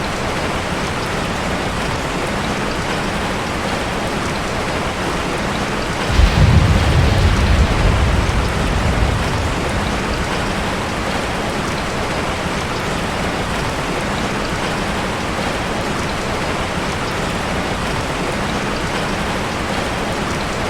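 Steady heavy rain drumming on a corrugated zinc (sheet-metal) roof. About six seconds in, a sudden low rumble of thunder comes in and fades over about three seconds.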